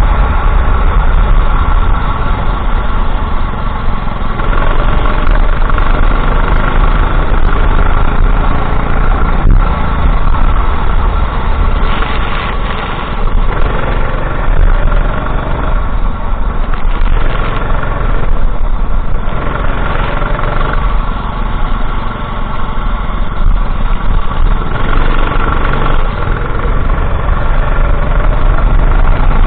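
Kart engine running hard through a race lap, its pitch rising and falling as the driver accelerates and lifts for corners, with a heavy low rumble underneath.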